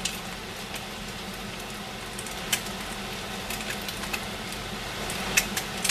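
Omelette frying in a pan with a steady sizzle, and a few sharp knife taps on a cutting board as tomatoes are cut into chunks.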